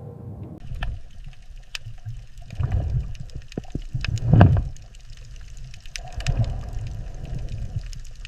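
Underwater water ambience: low churning and gurgling water with scattered sharp clicks, swelling louder about four seconds in.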